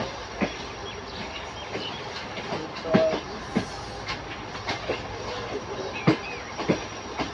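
Passenger train coach running on the rails: a steady rumble with irregular clacks and knocks as the wheels cross rail joints, the loudest about three and six seconds in.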